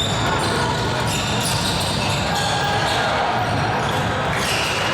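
Basketball bouncing on a gym court during play, over the steady din of a busy hall.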